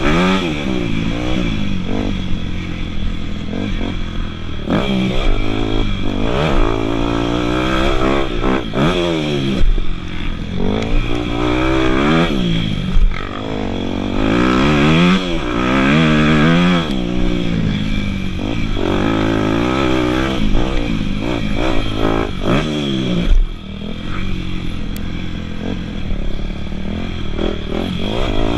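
Dirt bike engine revving up and down over and over, its pitch rising and falling every second or two as the throttle is opened and shut, with a few sudden louder knocks.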